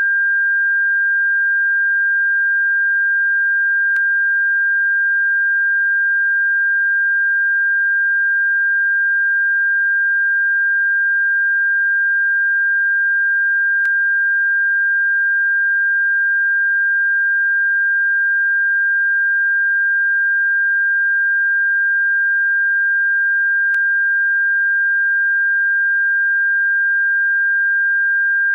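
Electronically generated bird-repellent tone: a single pure, steady high-pitched tone held without change, with a faint click about every ten seconds.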